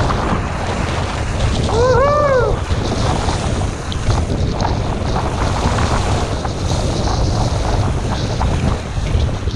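Strong wind buffeting the microphone over the wash and splash of rough water around a surfski. About two seconds in comes a short cry that rises and falls in pitch.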